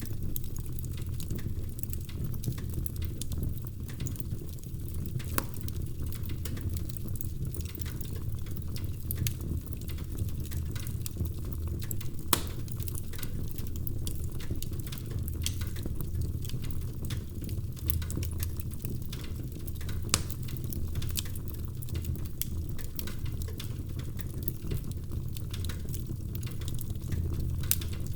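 Wood fire crackling in a fireplace: a steady low rumble of the burning fire with frequent small pops and snaps, and a few sharper snaps standing out.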